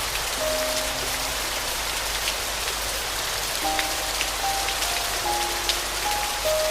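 Steady rain falling, a dense hiss with scattered individual drop ticks, under slow, soft piano notes played one at a time, with a pause in the melody in the middle.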